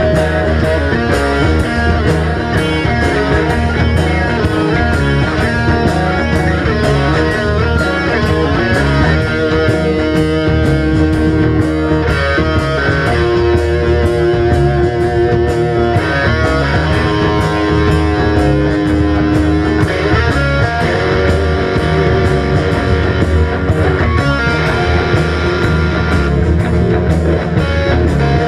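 Live rock band playing an instrumental passage: distorted electric guitars over bass and drums with a steady fast beat, no vocals.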